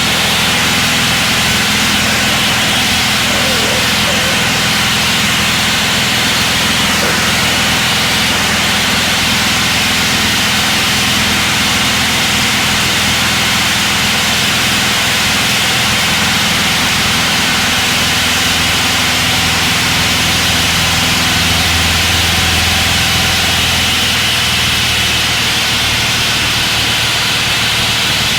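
Citabria 7ECA's four-cylinder Lycoming engine running steadily in flight, heard from inside the cockpit over a constant rush of noise.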